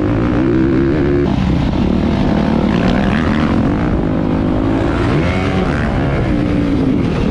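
Motocross bike engines running hard under racing, their pitch repeatedly rising and falling as they rev and shift, with more than one engine heard at once.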